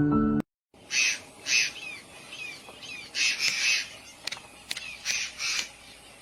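Birds calling: a series of harsh squawks, interleaved with short downward-slurred chirps. The loudest calls fall about a second in and again around three and a half seconds in.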